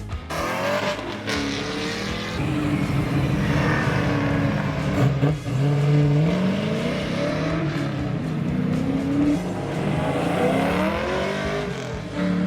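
Car engine being driven hard, its pitch climbing and dropping several times as it revs up and backs off.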